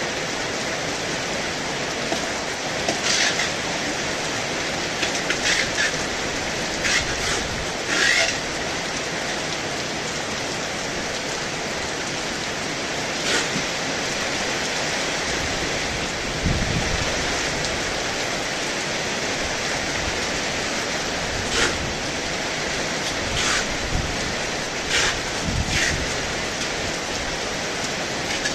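Heavy rain falling steadily, with scattered brief sharp hits and a few short low rumbles.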